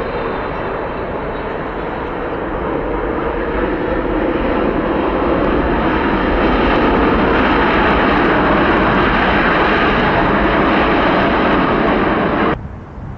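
Engines of a passing jet airliner: a loud, steady rushing noise with a faint high whine, growing louder over the first several seconds. It cuts off abruptly near the end.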